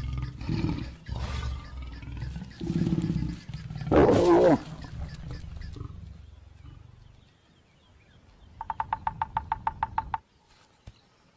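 Lions growling and snarling during mating, with one loud snarl about four seconds in before the sound fades. Near the end comes a quick, even train of about ten pulses a second, lasting under two seconds.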